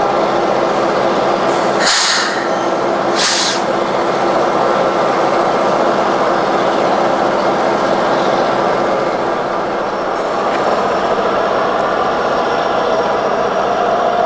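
A train passing close by: a loud, steady rail-and-engine rumble, with two short hissing bursts about two and three seconds in.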